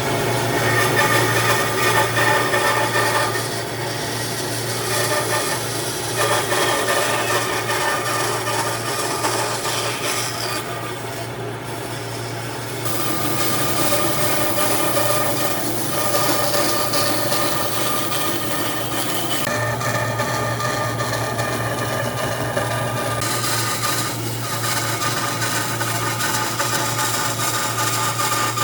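A power tool running steadily while abrading wood, a rough rubbing noise over a constant motor hum, with a few brief dips in level.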